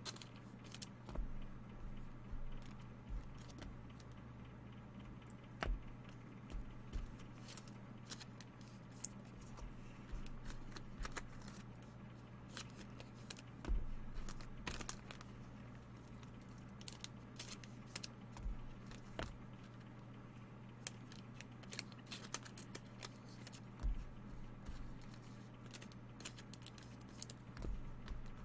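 Trading cards and pack wrappers being handled: scattered faint crinkles, taps and light clicks over a steady low hum.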